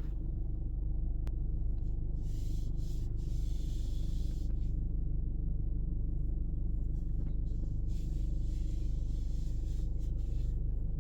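A Jeep's engine running, heard from inside the cabin as a steady low rumble, with two stretches of soft hiss over it.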